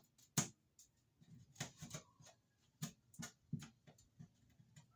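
A scattered series of faint clicks and light knocks, as of plumbing parts being handled, with one sharper click about half a second in.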